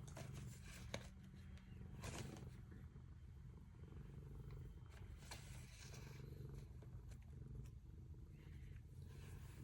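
A cat purring: a faint, steady low rumble, with a few light clicks over it.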